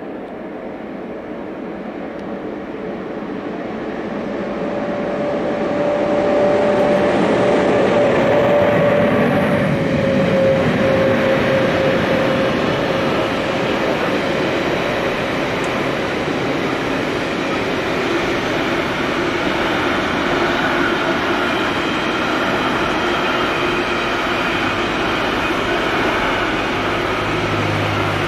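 Electric-hauled intermodal freight train of tank containers and swap bodies passing. The locomotive grows louder as it approaches, and near its peak a steady whine drops slightly in pitch as it goes by. Then comes the steady rolling of the wagons over the rails.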